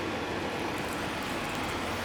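Steady engine and road noise inside the cabin of a moving bus, with a few faint rattles.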